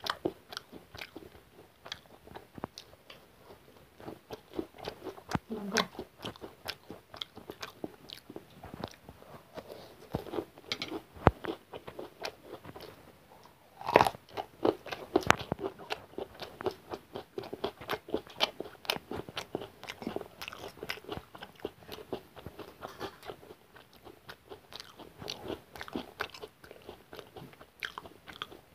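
Chewing and biting of fried chicken pakora and noodles: a continuous run of crunches and wet mouth clicks, with the loudest crunches near the middle.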